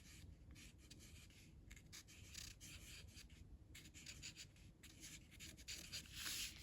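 Faint, irregular scratchy strokes of a colouring tool rubbing back and forth on paper, shading in an area.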